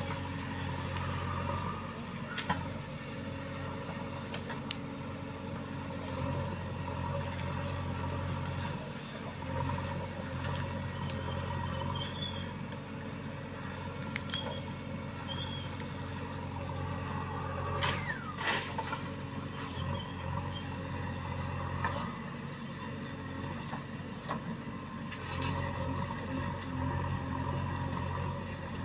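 Heavy diesel engine running steadily, with a few sharp knocks and clanks scattered through.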